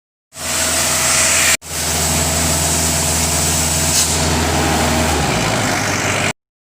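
Generator set's engine running steadily, loud and even. The sound cuts in abruptly, breaks off for an instant about a second and a half in, shifts slightly in its low note about five seconds in, and cuts off abruptly.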